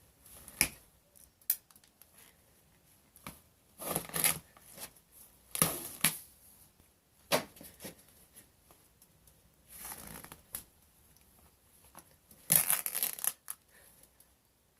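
A canvas sneaker being torn and crushed by hand: irregular bursts of tearing and scraping, the longest near the end, with a few sharp clicks.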